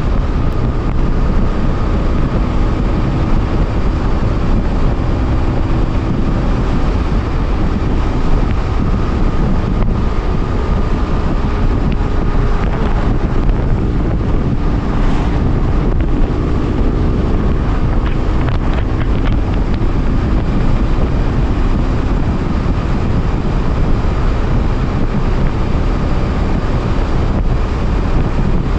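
BMW F800R's parallel-twin engine running under way at a fairly steady speed, its note shifting slightly in pitch around the middle, with heavy wind rush on the microphone.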